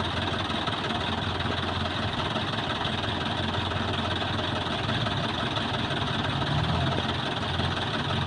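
Mahindra Yuva 585 4WD tractor's diesel engine idling steadily, its pitch rising a little near the end.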